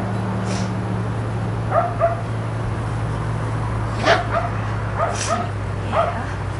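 Puppies giving short, high play yaps and barks, about seven in all, several in quick pairs, over a steady low hum.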